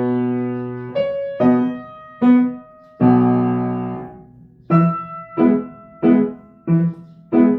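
Piano played slowly in chords. A chord is held at the start, followed by a few single notes, a long sustained chord about three seconds in, and then a run of evenly repeated chords about every 0.7 seconds.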